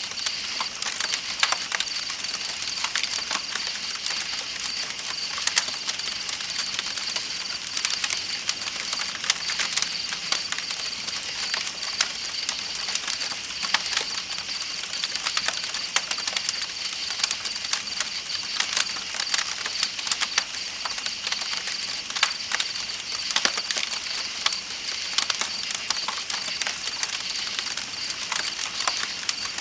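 Campfire crackling with frequent sharp irregular pops, over a steady high-pitched chorus of night insects.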